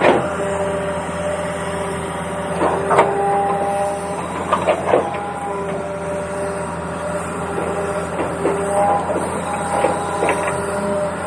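Toy excavator's small electric motors and gears whirring, the whine switching between a few steady pitches as different functions run, with several short plastic knocks and clatters.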